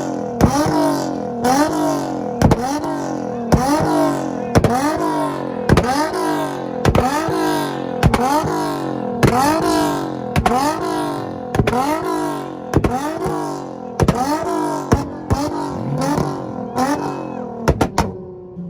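Nissan Z car's engine revved over and over, about once a second, each rise in pitch ending in a sharp pop. A couple of quick pops come near the end, then the revs fall away.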